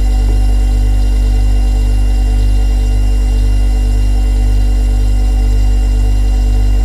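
Refrigerator compressor running with a steady, deep hum and a faint, slow pulsing.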